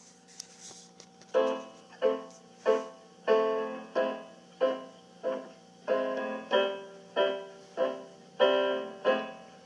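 Piano song intro: repeated chords struck about every two-thirds of a second, each fading before the next, starting about a second and a half in.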